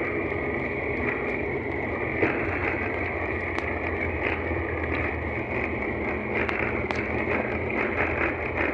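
Steady engine and road noise of a car driving slowly, heard from inside the cabin, with a few faint clicks.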